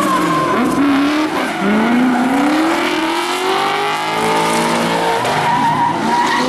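Drift car engines revving up and falling back in repeated swells, with the tyres screeching as the cars slide.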